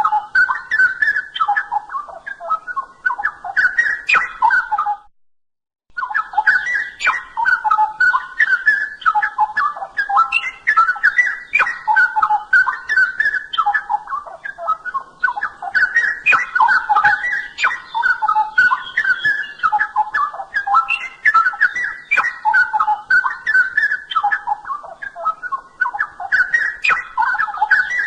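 Straw-headed bulbul (cucak rowo) singing loudly in a continuous run of rich, rapid whistled and warbled phrases. The song breaks off for about a second roughly five seconds in, then resumes.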